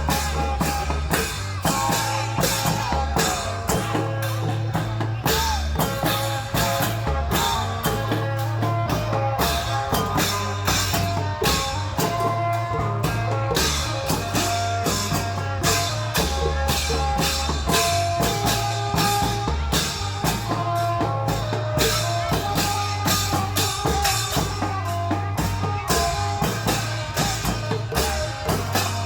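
Isan klong yao long-drum band music: fast, steady drum strokes over a deep bass line, with a held melody line on top.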